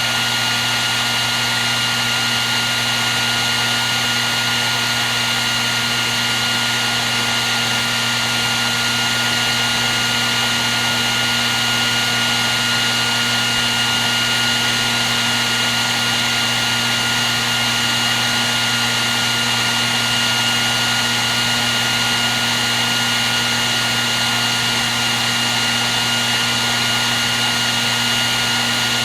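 Hair dryer running continuously at a steady setting: an even rush of blown air with a constant motor whine and a few steady high tones, unchanging throughout.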